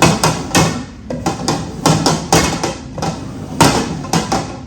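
A run of irregular sharp knocks and clatter, a couple to a few each second, as objects are shuffled about on a hard tabletop.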